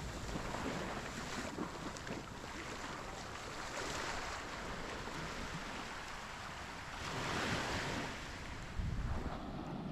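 Small waves washing onto a sandy beach, swelling a few times, with wind buffeting the microphone.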